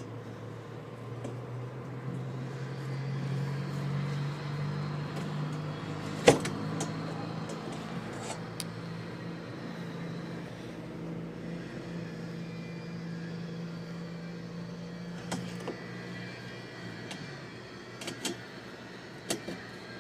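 John Deere tractor engine running steadily, with a loud sharp click from the cab door lock about six seconds in and a few lighter clicks near the end.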